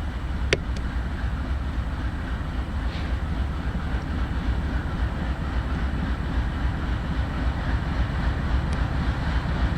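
Diesel freight locomotives running with a steady low rumble as they back slowly toward their train to couple up. A single sharp click about half a second in.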